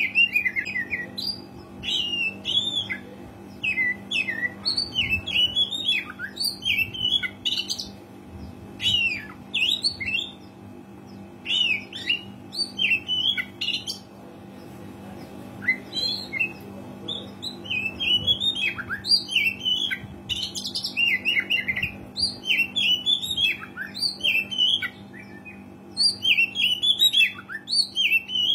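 Oriental magpie-robin singing a loud, varied song of quick whistled and chattering phrases in bursts, with a short break about halfway. A faint steady hum runs underneath.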